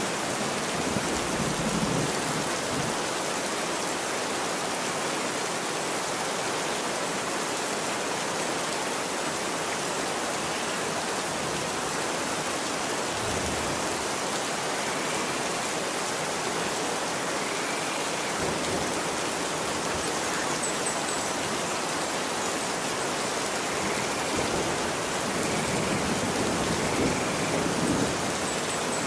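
Steady rain falling on a street, an even hiss of drops with a few soft low thuds. Faint short high chirps come now and then in the second half.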